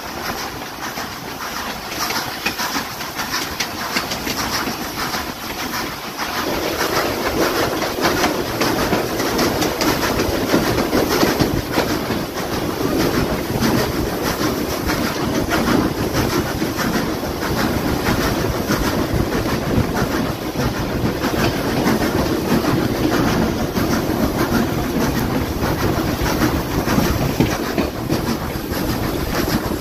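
Steam-hauled train running along the track, its wheels clicking over the rail joints; the sound grows louder about six seconds in and holds steady.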